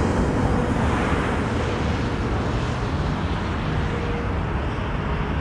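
Rumble of a Connecticut Southern freight train that has just passed, slowly fading into the distance as a steady, even noise.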